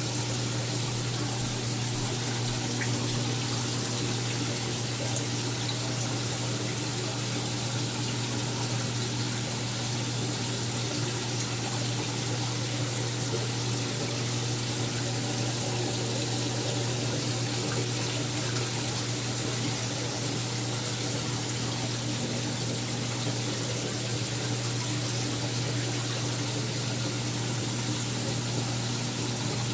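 Saltwater aquarium system running: a steady pump hum under a constant rush of circulating water.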